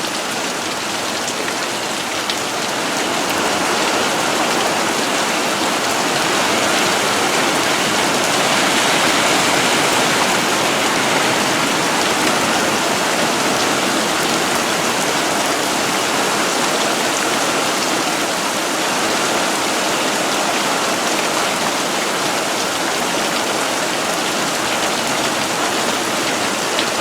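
Heavy monsoon rain pouring steadily and pattering on surfaces, a dense even hiss that builds a little louder a few seconds in.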